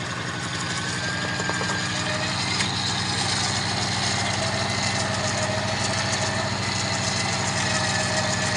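A truck engine idling steadily, with a faint thin whine above it.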